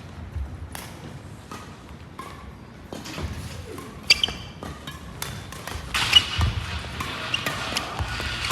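Badminton rally: sharp racket strikes on the shuttlecock, with shoes squeaking on the court floor, busiest in the second half.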